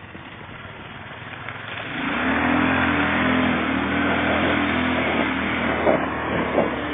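ATV engine revving up hard about two seconds in and held at high revs under load, with a few sharp knocks near the end.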